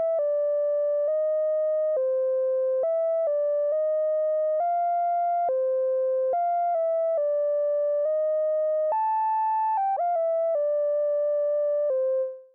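Roland Fantom synthesizer preset '053 R&B Tri Lead' playing a single-note lead melody of held notes stepping up and down. It fades out just before the end.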